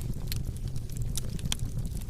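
Wood fire crackling in a fireplace: a steady low rumble of burning with frequent small sharp pops and snaps, one louder pop about one and a half seconds in.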